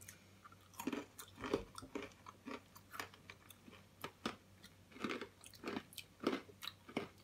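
Crunchy hard pretzel pieces being chewed close to the microphone: irregular crisp crunches, about two a second.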